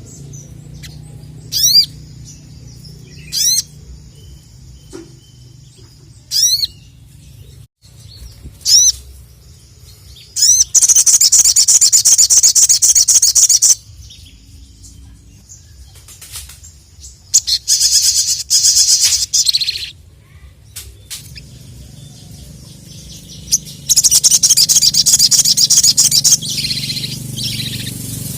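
Sogon (sogok ontong), a sunbird, singing loudly. It gives short, sharp, high chirps every second or two, then three long bursts of fast chattering song, each two to three seconds long. This is the excited full song (gacor) that hobbyists use to challenge rival birds.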